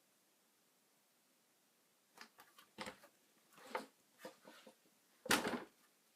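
A string of short clicks and knocks, like objects being handled and set down, ending in a louder knock near the end.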